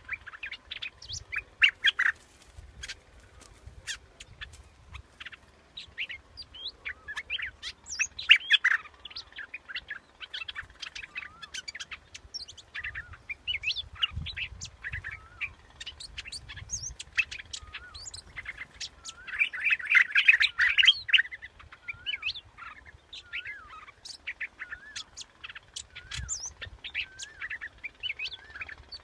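Bulbul (the 'nok dok taeng', a yellow bulbul) singing, a decoy-call recording: a run of short chirps and warbled, bending notes, with a burst of rapid notes about two-thirds of the way through.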